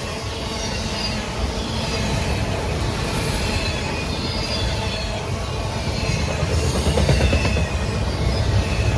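Train rolling past: a steady rumble of wheels on rail, with short high-pitched squeals from the wheels again and again.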